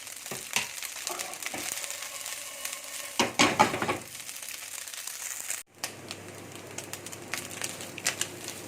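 Diced chicken breast frying with garlic in oil in a pan, a steady sizzle broken by scrapes and clacks of stirring against the pan, loudest about three seconds in.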